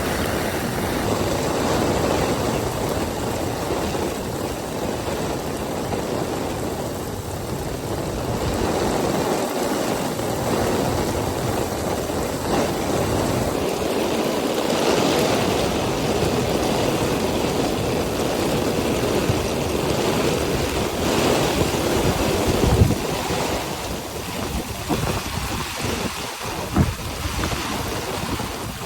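Steady rain with wind, a continuous rushing noise with gusty rumble, and a couple of brief knocks near the end.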